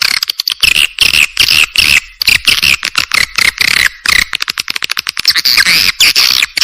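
Swiftlet calls: a dense, unbroken stream of rapid twittering chirps and fast clicks, loud and without pause. It is a swiftlet lure call, the kind played to draw swiftlets to a nesting house.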